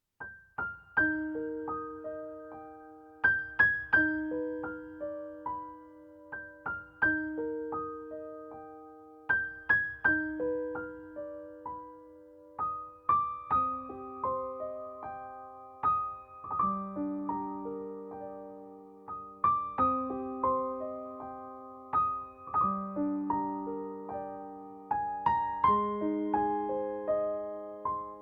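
Gentle solo piano music: slow arpeggiated notes that ring and fade, a repeating pattern every three seconds or so, with lower notes coming in about halfway through.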